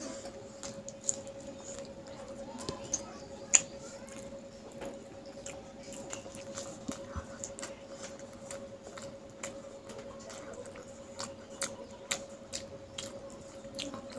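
Wet mouth sounds of a child chewing rice and fish curry eaten by hand: many small clicks and smacks, one sharper than the rest about three and a half seconds in, over a faint steady hum.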